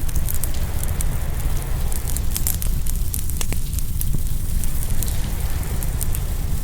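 Open wood fire crackling and popping in many quick sharp snaps, over a steady low rumble and hiss of waves washing in on the shore.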